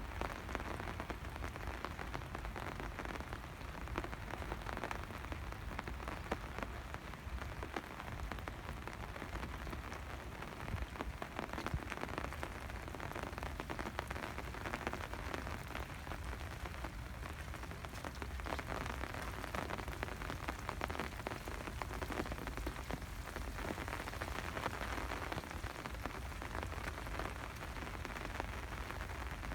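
Steady rain falling, with a continuous hiss dotted with many small drop hits.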